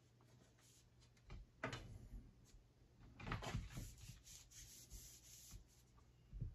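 Quiet handling of wooden arrow shafts: a few light knocks and clicks, with a short burst of wood rubbing and tapping around the middle and a sharper knock near the end.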